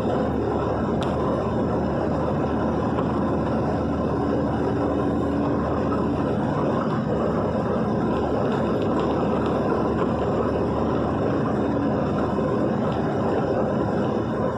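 Vehicle driving through heavy rain: a steady, unbroken rush of road and rain noise.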